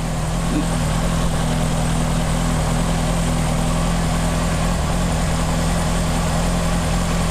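2004 Honda CBR600RR's inline-four engine idling steadily, warming up before an oil change.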